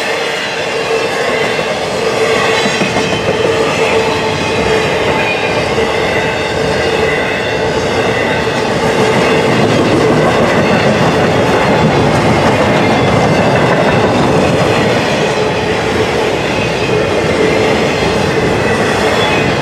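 Intermodal freight cars rolling past at speed: steel wheels rumbling and clattering over the rails in a continuous, loud stream. A steady tone runs through the clatter, and the sound grows slightly louder about halfway through.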